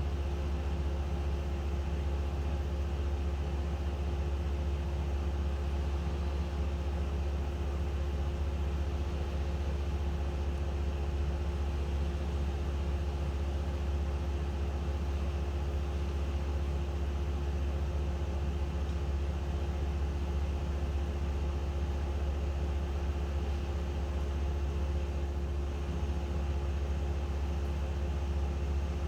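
A steady, unchanging low machine drone with a constant hum above it.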